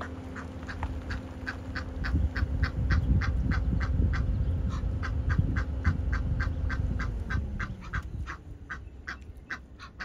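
A bird calling in a fast, even series of short, sharp notes, about three to four a second, over a low rumble.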